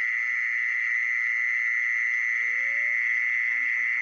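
Steady, high-pitched insect drone that runs without a break, with faint voice-like sounds gliding up and down beneath it and one longer rising call midway.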